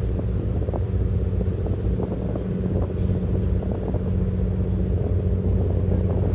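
A boat engine running steadily at constant speed: an even, low drone with a few light knocks over it.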